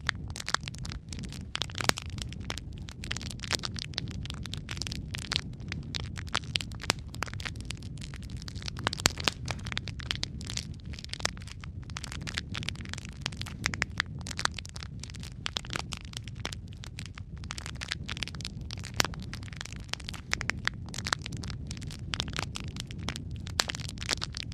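Wood fire crackling in a fireplace: many irregular sharp pops and snaps over a steady low rumble of burning.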